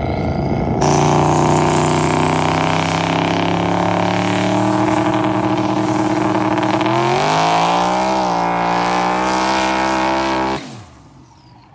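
Car engine running hard at steady revs, its pitch climbing about seven seconds in. It starts and cuts off abruptly.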